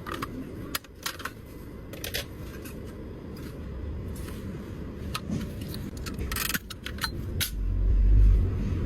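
Irregular small clicks and taps of plastic and metal parts being handled as an instrument cluster is taken apart on the bench, with a brief rustle about six and a half seconds in and a low rumble near the end.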